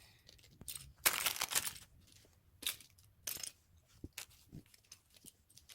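Small plastic LEGO pieces being handled: a rustle lasting most of a second about a second in, then a series of short clicks and rattles.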